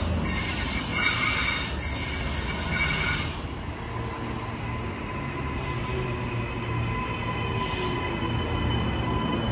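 Suburban train running along the track with a steady rumble, its wheels squealing in high, on-and-off bursts over the first three seconds or so, then again briefly near the end.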